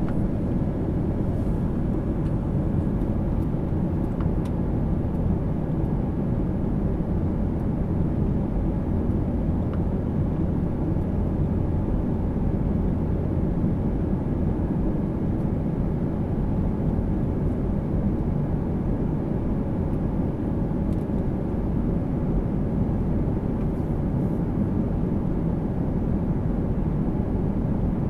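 Airliner cabin noise in flight: a steady low drone of engines and rushing air, with a faint steady hum above it.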